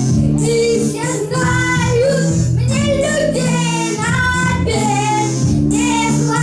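Children singing a song over a backing track with steady sustained accompaniment notes.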